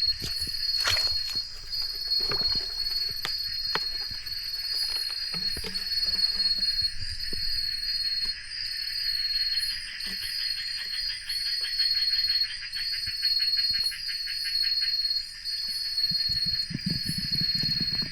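Forest insects trilling in a steady chorus: one high continuous trill, with a second rapidly pulsing trill that swells in the middle. Scattered small clicks and knocks sound over it.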